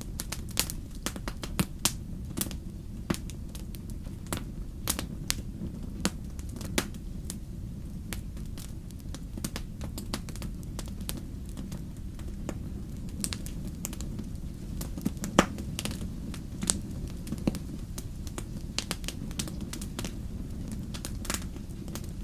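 Wood fire crackling: frequent irregular sharp pops and snaps over a steady low rumble of the flames, with one louder pop about two-thirds of the way through.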